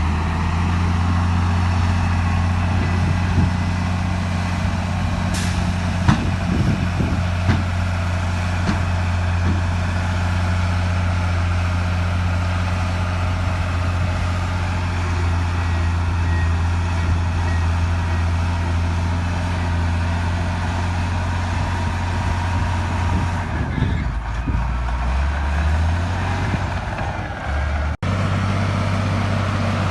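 Heavy diesel engine of earthmoving machinery running steadily with a deep drone and a few faint knocks. About three-quarters of the way through the engine note shifts lower for a few seconds, and the sound cuts out for an instant near the end.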